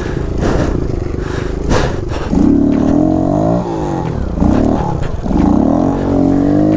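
Small single-cylinder four-stroke Kawasaki KLX pit bike engine revving up and easing off three times in quick succession, from a little after two seconds in.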